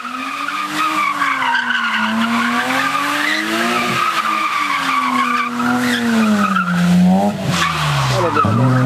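Car engine revving up and down as the car is driven hard through a cone course, its tyres squealing steadily through the turns. Near the end the engine pitch drops sharply and climbs again.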